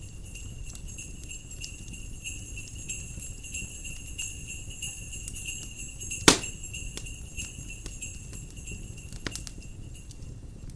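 Jingle bells shaking steadily over a crackling wood fire, with one loud sharp pop from the fire about six seconds in and a low rush of wind underneath.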